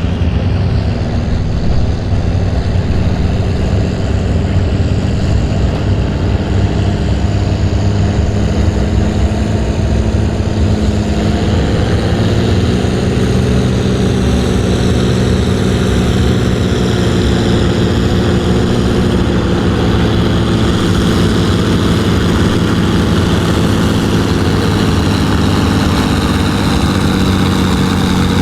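1955 Oliver tractor's engine running hard as it pulls the weight-transfer sled down the track. The sound is a loud, steady drone that grows harsher from about eleven seconds in.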